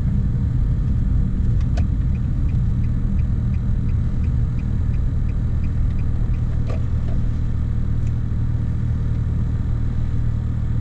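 A vehicle engine running steadily, a continuous low hum. A faint, regular ticking of about four ticks a second is heard over it for a few seconds near the start.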